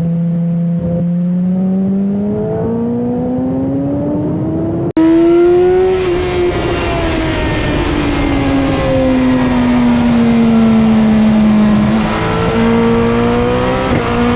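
BMW S1000RR inline-four engine running hard at track speed under heavy wind rush. Its note climbs steadily, then after an abrupt cut about five seconds in falls slowly as the bike eases off, and near the end picks up again after a short break.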